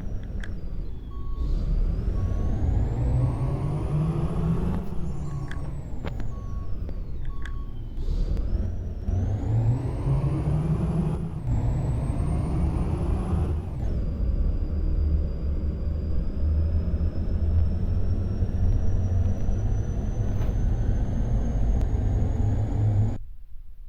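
Ashok Leyland truck's diesel engine pulling through the gears: the revs rise, fall away at each gear change (three times), and then settle to a steady run at speed.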